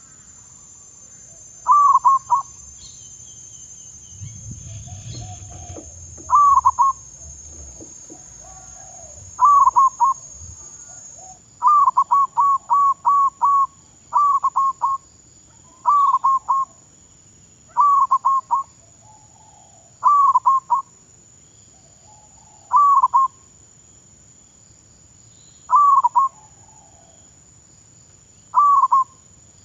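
Zebra dove (perkutut) cooing: short rolling coos repeated every two to three seconds, with one longer run of quick notes about twelve seconds in.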